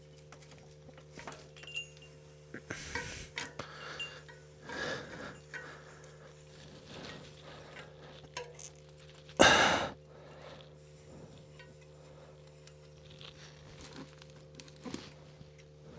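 Metal tools and trike parts clinking and knocking during hands-on work, a scatter of small clicks with one louder clatter about halfway through, over a faint steady hum.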